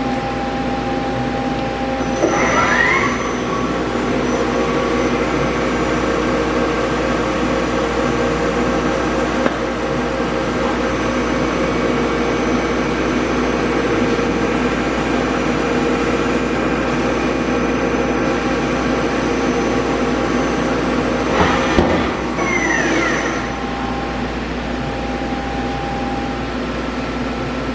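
Takisawa TW-30 CNC lathe running a machining cycle. The spindle whine rises as it speeds up about two seconds in, and the machine runs steadily with a hum of motors and tones. Near the end a few knocks come, and the whine falls as the spindle slows.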